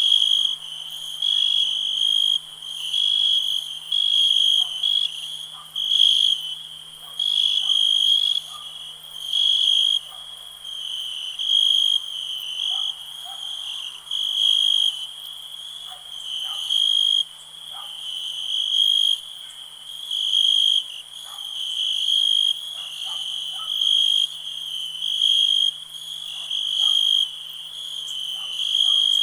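Crickets chirping: a continuous high trill that swells in regular pulses about once a second. Faint short calls sit lower beneath it.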